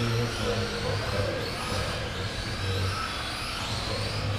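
Several radio-control racing trucks' motors whining together, the pitch rising and falling over and over as they accelerate and slow.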